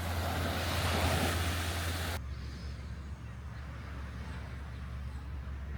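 Surf and wind noise on a beach with a steady low rumble; the hiss cuts off abruptly about two seconds in, leaving a quieter rumble.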